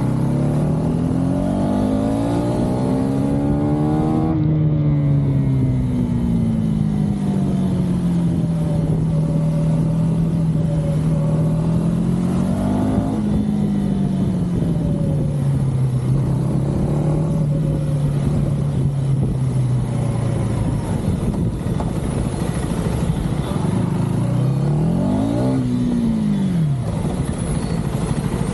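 KTM 390 Duke's single-cylinder engine and exhaust under way: revs climb over the first few seconds, ease off, climb again about halfway through, then hold steady. Near the end the revs rise and drop quickly once, over a steady rushing noise.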